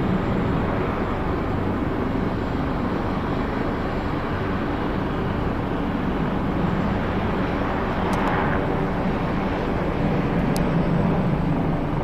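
Kawasaki T-4 jet trainers' twin turbofan engines, a loud steady jet noise with no let-up.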